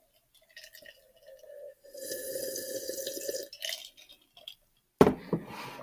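Drinking sounds: a few sips of water, then a longer steady draw or swallow lasting a second and a half. Near the end comes a sharp knock, like a drink being set down on the table.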